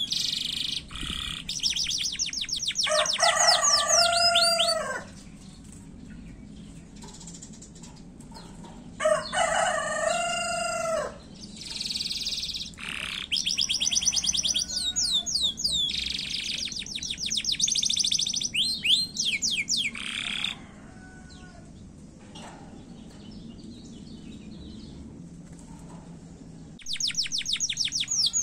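Domestic canary in full song: short, fast phrases of rapid high trills and whistled notes, in several bursts with two pauses of a few seconds between them.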